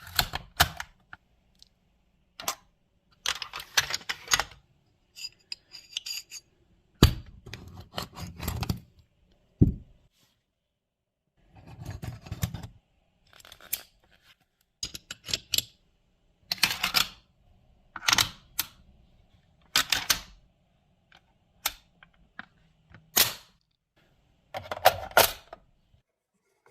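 Metal parts of a Swedish AG42B Ljungman semi-automatic rifle clicking, sliding and clacking as it is field-stripped and reassembled. The sound is an irregular run of sharp clicks and short clatters with pauses between them, a few with a duller knock.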